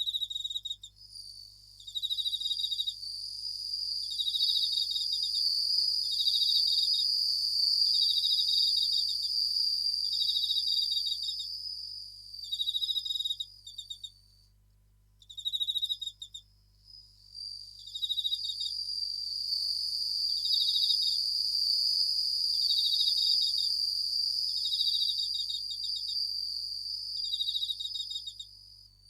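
Japanese bell crickets (suzumushi) singing: a steady high ringing trill, with short pulsed chirps repeating about every second and a half. The ringing drops out briefly about halfway through, while the chirps go on.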